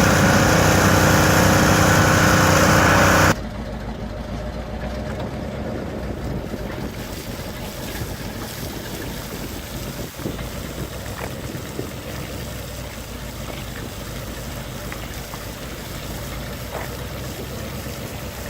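An engine on a 1977 Ford F350 water truck running steadily with a droning hum. About three seconds in it cuts off abruptly to a much quieter, steady low rumble with a rushing noise.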